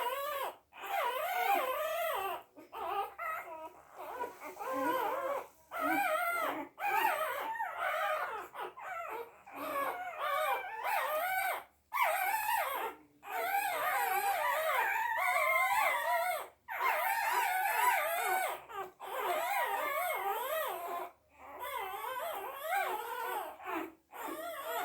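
A dog whining and whimpering in a long run of wavering, high cries broken by short pauses.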